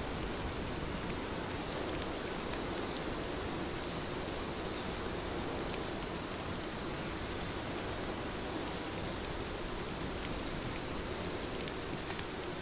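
Heavy rain falling steadily, an even hiss of rain with scattered sharp drop ticks.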